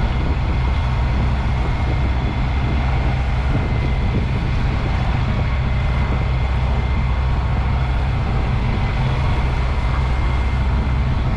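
Sailboat's inboard diesel engine running steadily under way, a loud, even low drone.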